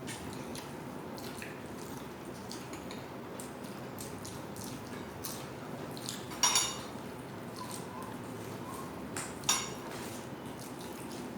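Eating at a table: soft clicks of food and dishes, with two sharp ringing clinks of a utensil against a plate, one a little past halfway and another about three seconds later.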